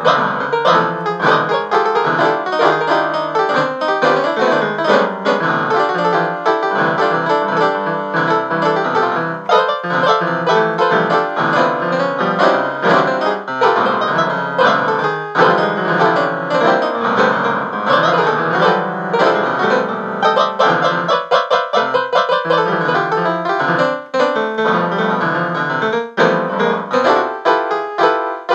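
Piano music playing continuously, a busy run of notes.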